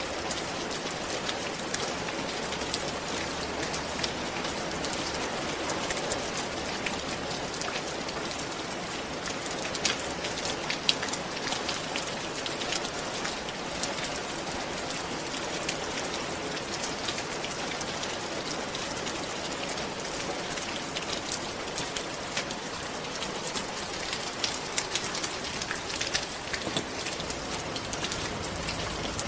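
Steady rain falling on a roof, a constant hiss of rainfall with many individual drops ticking sharply on the roof surface.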